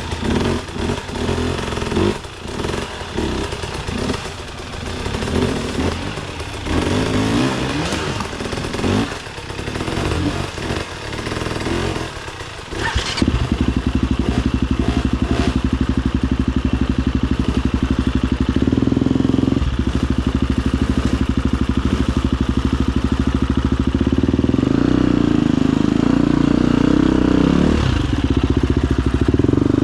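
Husqvarna FE250 four-stroke single-cylinder enduro motorcycle engine, worked on and off the throttle at low revs for about the first half, then held at a steady, louder engine speed from about halfway on.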